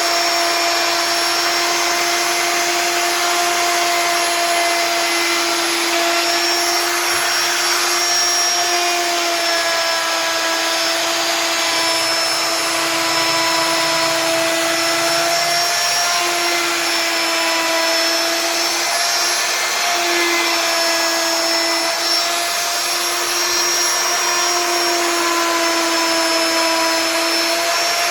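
CNC wood router spindle running and cutting wood: a steady whine over a hiss of cutting noise, the pitch dipping briefly twice about halfway through.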